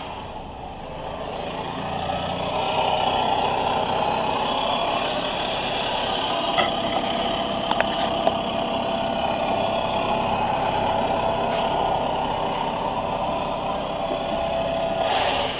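2013 Lexus CT 200h's 1.8 L four-cylinder petrol engine running steadily. It grows louder over the first couple of seconds, then holds an even level, with a few faint ticks in the middle.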